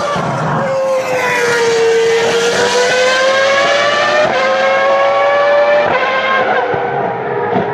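A Ferrari racing car's engine at high revs: its pitch dips, then climbs steadily as it accelerates, with two quick upshifts where the pitch drops suddenly and climbs again.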